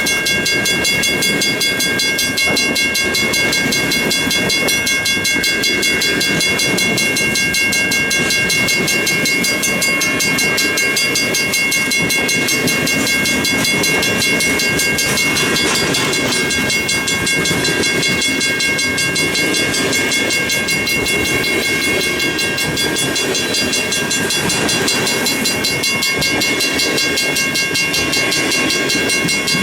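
Freight train of about 75 cars rolling steadily past a grade crossing: a continuous rumble of wheels on rail, with steady high-pitched ringing tones held over it.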